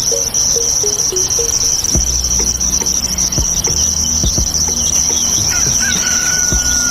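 Crickets chirring in a steady high-pitched drone, with a few soft low thumps scattered through and a thin whistle-like tone coming in near the end.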